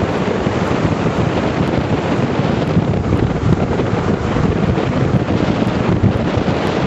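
Wind buffeting the camera microphone: a loud, steady rumbling noise with quick flutter and no letup.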